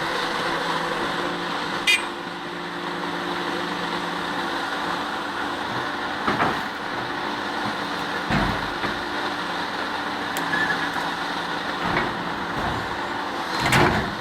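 Heavy machine's diesel engine running steadily, with several short knocks and clanks along the way, the loudest near the end.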